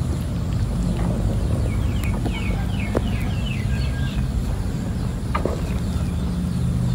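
Outdoor background with a steady low rumble, with a bird's rapid run of short falling chirps about two seconds in and a couple of sharp clicks.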